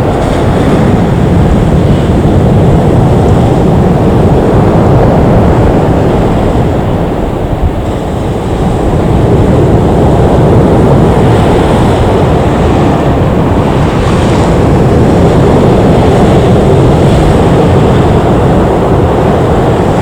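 Loud, steady rushing noise with no distinct pitch, dipping briefly about eight seconds in.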